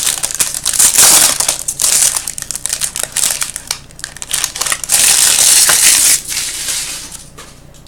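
Trading-card pack wrapper being torn open and crumpled by hand: loud, irregular crinkling and crackling, heaviest about a second in and again around five to six seconds in.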